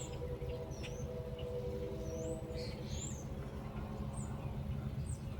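Birds chirping in the background, scattered short high calls and rising-and-falling whistles, over a steady low hum.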